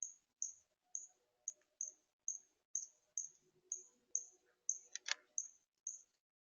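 A small bird giving short, sharp, high chip notes over and over, a little over two a second, with one louder, fuller stroke about five seconds in.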